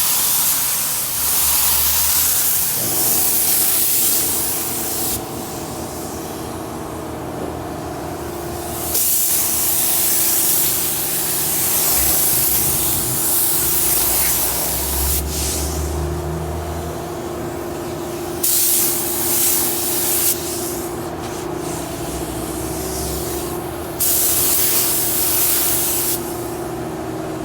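Compressed-air paint spray gun hissing in several passes of a few seconds each, with short pauses between, over a steady hum that starts a few seconds in.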